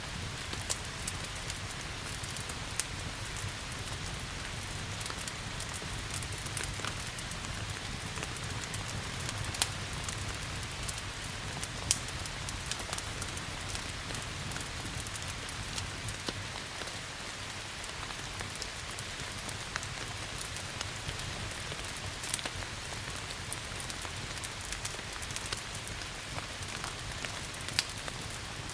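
Steady rain hiss mixed with a crackling wood fire: a constant wash of rain with frequent small crackles and a few sharper pops scattered through.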